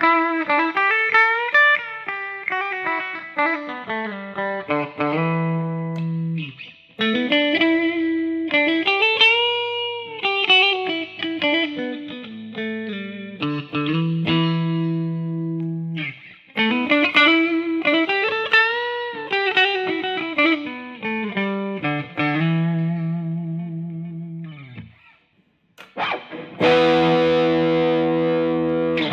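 Squier 40th Anniversary Jazzmaster electric guitar playing a single-note melody whose notes slide up and down in pitch, the same phrase about three times over. Near the end it switches to a distorted tone.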